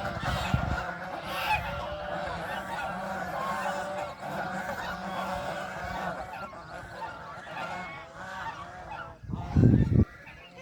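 A flock of birds calling over one another, a dense chatter of many short honking calls. A short, loud, low thud comes about nine and a half seconds in.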